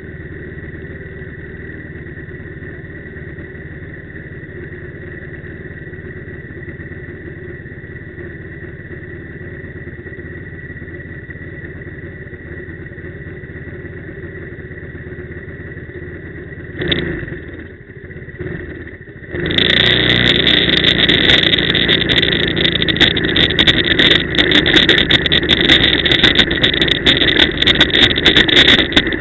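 Quad bike (ATV) engine running steadily for most of the stretch. After a short dip, about two-thirds in, the sound gets much louder: a rough rush with many crackles.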